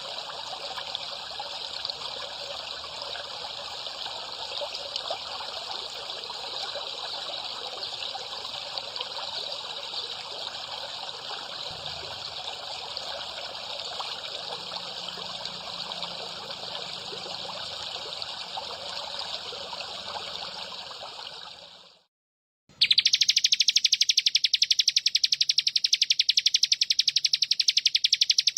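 Water trickling steadily, fading out about 22 seconds in. After a short silence, a small songbird starts a loud, fast, buzzy trill of rapidly repeated high notes.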